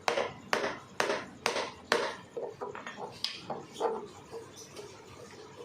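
Sharp knocks struck about twice a second, then lighter, uneven taps that die away about four seconds in.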